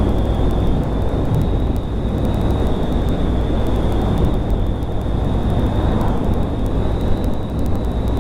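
Honda Grom 125's single-cylinder engine running steadily while riding, under heavy wind rush over the microphone, with a thin high whine holding steady throughout.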